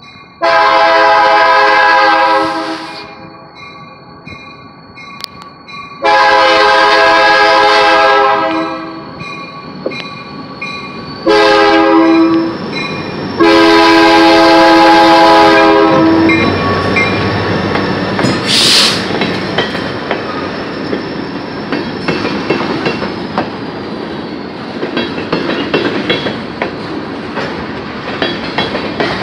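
Indiana Southern diesel locomotive's horn sounding the grade-crossing signal: two long blasts, a short one, then a long one. The locomotive then passes, followed by empty coal hopper cars rolling by with wheels clacking over the rails.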